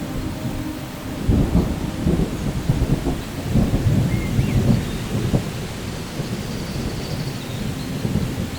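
Thunder rumbling over steady rain: a crackling low roll starts about a second in, is loudest over the next four seconds, then fades back under the rain's hiss.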